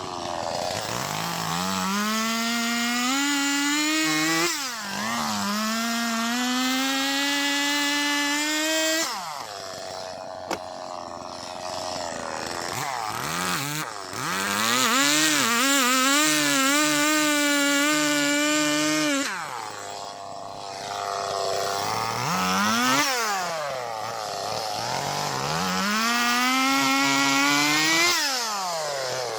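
Two-stroke chainsaw cutting dry, dead ash wood. The engine revs up high and holds under load, then drops back toward idle between cuts, several times over.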